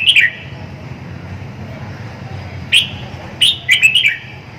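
Red-whiskered bulbul singing: loud, short whistled notes that fall in pitch, one phrase ending at the start and another, a single note followed by a quick run of several, about three seconds in.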